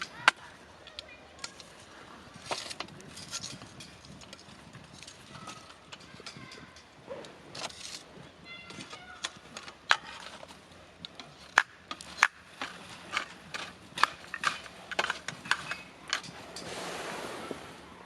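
Wood campfire crackling, with irregular sharp pops and snaps, several of them loud, and a rushing swell of noise about two seconds before the end.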